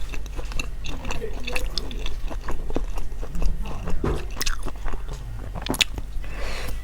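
A person eating close to the microphone: chewing and biting, with many irregular crunchy clicks and smacks.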